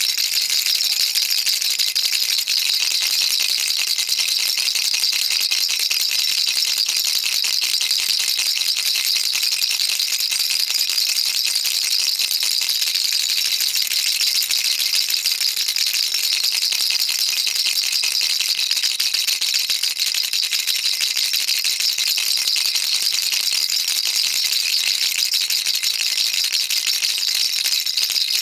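Baby rattle shaken continuously: a dense, steady, high-pitched rattling of small beads against plastic, with no pauses.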